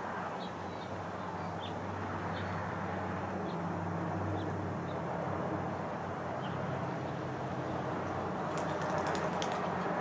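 Outdoor background with a steady low hum, faint short high bird chips every half second to a second through the first half, and a quick cluster of sharp clicks near the end.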